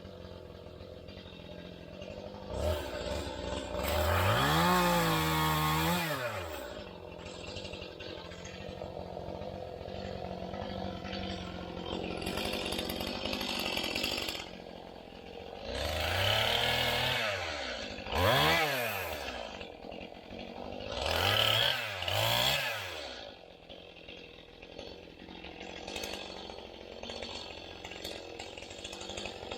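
An engine idling steadily, revved up and let fall back four times in short bursts.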